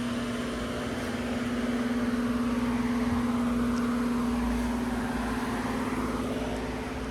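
A steady mechanical hum, with a rush of noise that swells in the middle and eases off near the end.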